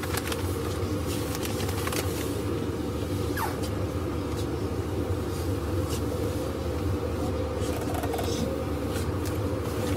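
Meitetsu 6800 series electric commuter train running, heard from inside the front car: a steady rumble of motors and wheels on the rails, with a few sharp clicks, as it pulls away from a station once the doors have closed.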